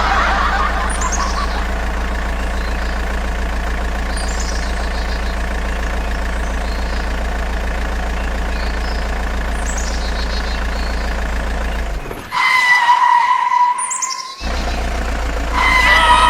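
Steady engine hum, like a truck idling, with birds chirping now and then. About twelve seconds in the hum cuts out for about two seconds while a held, horn-like tone sounds, then the hum comes back.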